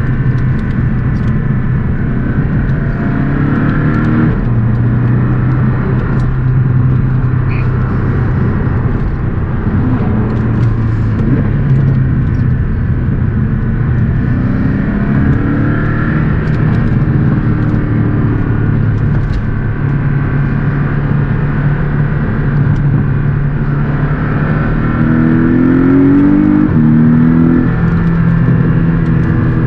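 Porsche 718 Boxster S's turbocharged flat-four engine driven hard on a winding road, its note climbing in pitch under acceleration three times, around 3, 15 and 25 seconds in, and dropping back after each climb, the last climb the loudest.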